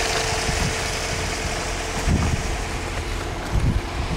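Car engine idling steadily, with a couple of low thumps about two and three and a half seconds in.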